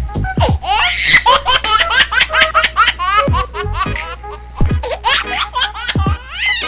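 High-pitched laughter in rapid, closely spaced bursts.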